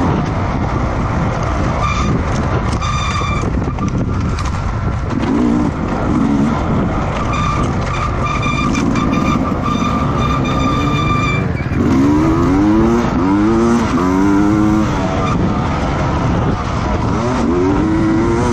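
Racing motorcycle engines running hard on a track. A high steady whine comes and goes early on, and in the second half the engine pitch climbs again and again, dropping back between climbs as the bikes accelerate through their gears.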